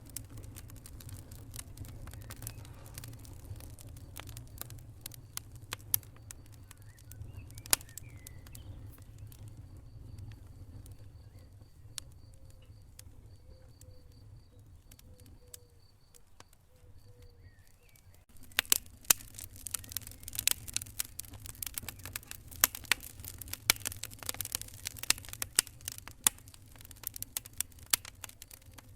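Wood fire burning in a fireplace: a low steady rumble with scattered crackles and pops. After about 18 seconds it turns into dense, continuous crackling.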